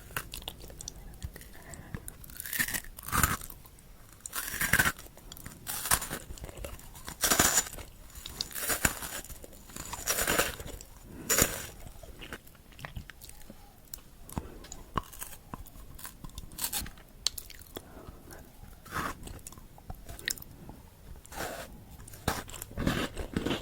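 Close-up chewing and crunching of chocolate candy: irregular crisp crunches, coming thickly in the first half and more sparsely later on.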